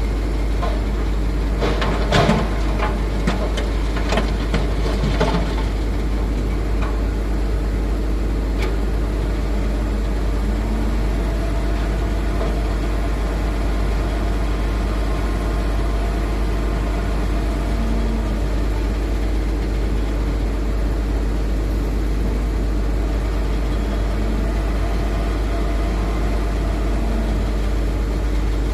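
Heavy diesel engines of a Hitachi Zaxis 210F excavator and an idling Mitsubishi Fuso dump truck, running steadily with small rises in pitch every few seconds as the excavator's load changes. Between about two and five seconds in there is a burst of knocks and clatters.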